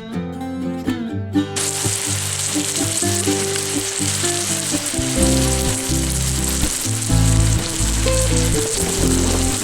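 Steak sizzling in a hot pan, an even hiss that starts about a second and a half in, over background guitar music.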